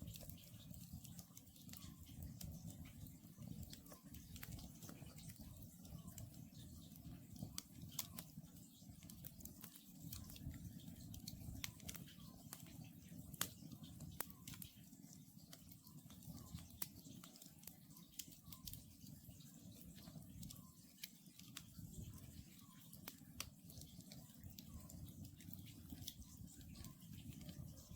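Faint wood campfire crackling, with irregular sharp pops over a low steady rustle of burning. A distant Oriental scops owl calls softly and repeatedly behind it.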